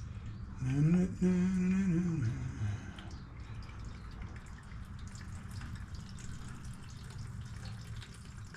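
A man hums a short note that rises, holds and falls over about two seconds near the start. Faint dripping and trickling of liquid goes on under it and after it.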